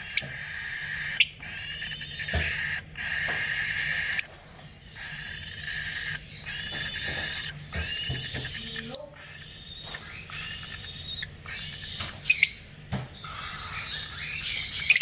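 Baby lutino cockatiel making raspy, hissing "dinosaur" calls: a string of harsh bursts, each about one to two seconds long, with short gaps and sharp clicks between them.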